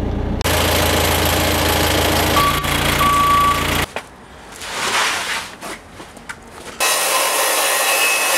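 A heavy vehicle's engine running steadily, with two short beeps about two and a half and three seconds in. It cuts off abruptly. A later stretch brings a loud rushing hiss that also starts and stops suddenly, like joined clips.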